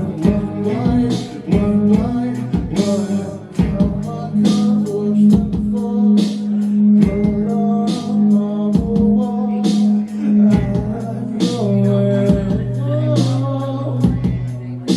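Band playing an acoustic arrangement: strummed acoustic guitar over long sustained low notes, with frequent sharp percussive hits.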